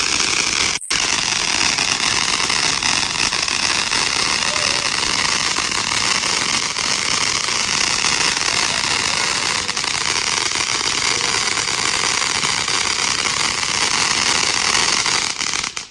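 Garden fountain firework spraying sparks with a loud, steady hiss, which drops out for an instant about a second in and cuts off abruptly at the end.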